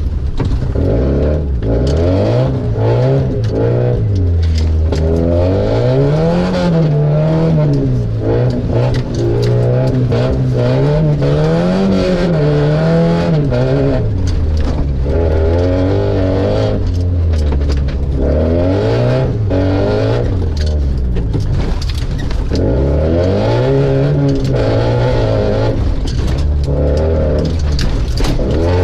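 Opel Frontera engine running through a straight-piped exhaust, driven hard: the pitch climbs and drops back again and again as it accelerates and shifts through the gears.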